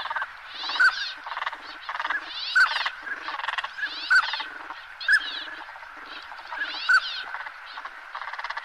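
A bulbul singing, repeating short phrases of clear notes and quick trills over and over, one every second or so.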